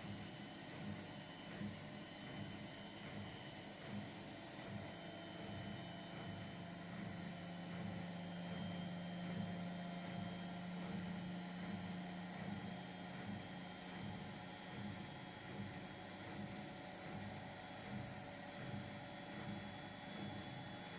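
Indesit washing machine running steadily in test mode: a low pulsing hum with thin high-pitched whines over it, and a steady low tone added between about six and thirteen seconds in.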